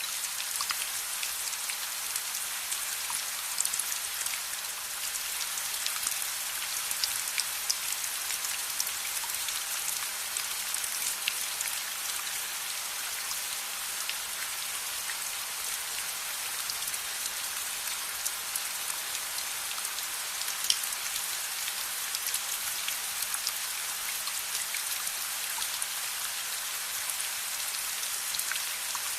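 Steady rain falling, with scattered sharp crackles of a wood fire mixed in; one crackle stands out louder about twenty seconds in.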